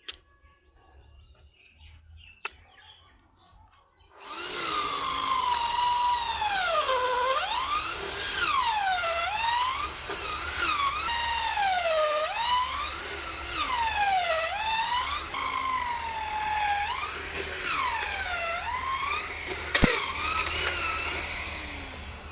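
A small motor-driven power tool runs loudly from about four seconds in. Its pitch drops and recovers about every two seconds, as the motor bogs under load and speeds up again. Before it starts there are only a couple of faint clicks.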